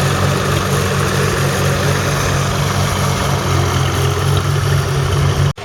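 Vintage tractor engine running steadily at a low, even beat. It cuts off suddenly near the end.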